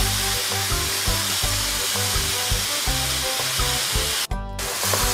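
Minced pork and enoki mushrooms sizzling in a wok as the mushrooms give off their water, under background music with a steady beat. The sound cuts out for a moment about four seconds in.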